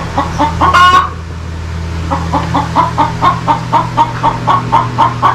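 A hen cackling: a run of short, even clucks about four a second, breaking into a louder drawn-out squawk about a second in, then another long run of clucks. A steady low hum runs underneath.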